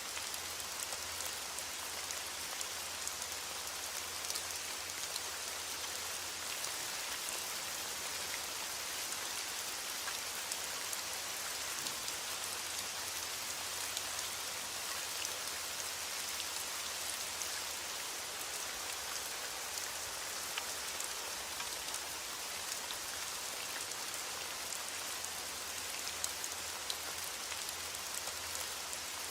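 Steady rain falling: an even hiss with many individual drops ticking on a surface.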